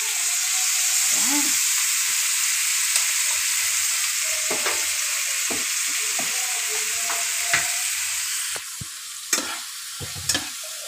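Pork and chicken pieces with onion sizzling in a frying pan while a metal turner stirs them, scraping and tapping on the pan. The sizzle drops off suddenly about eight and a half seconds in, leaving a few sharper scrapes and taps.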